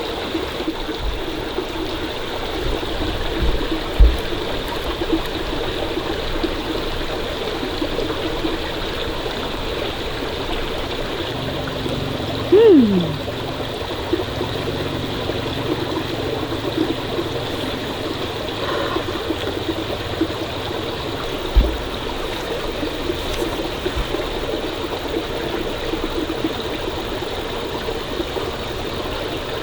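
Stream water flowing steadily, with a couple of low knocks and one short squeak falling in pitch about halfway through.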